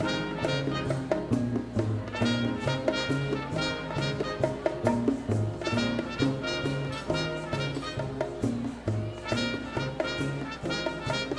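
A live Latin dance band plays with trumpets and trombones over a steady percussion rhythm and bass line, the brass sounding in repeated bursts.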